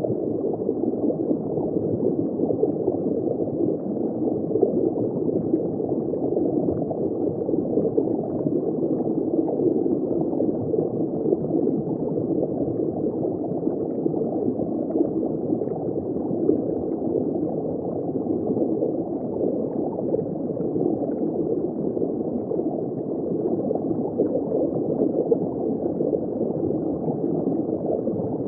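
Steady underwater bubbling and water flow heard from just below the surface, a dense muffled wash with no high end.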